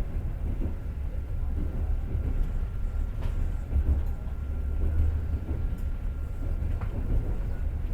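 A moving passenger train heard from inside the carriage: a steady low rumble of wheels on rail with a few faint clicks. A faint steady whine runs under it and stops near the end.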